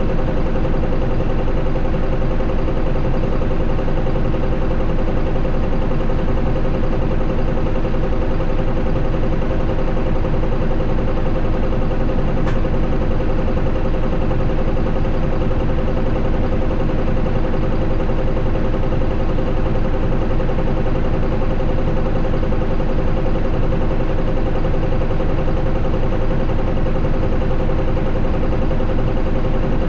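Isuzu Erga QDG-LV290N1 city bus's four-cylinder turbo-diesel engine running at steady, unchanging revs, with one faint tick about twelve seconds in.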